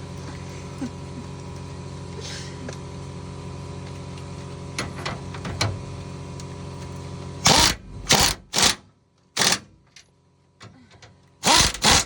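A steady machine hum cuts off about seven seconds in. It is followed by six short, loud bursts from a power tool driving fasteners, with pauses between them.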